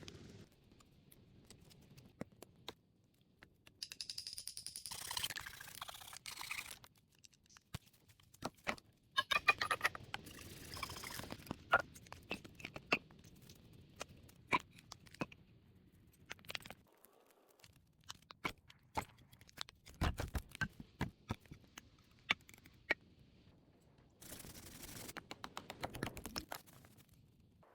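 Scattered knocks, clicks and scraping from hand work with wood and earth, coming in short spells with quieter gaps between them.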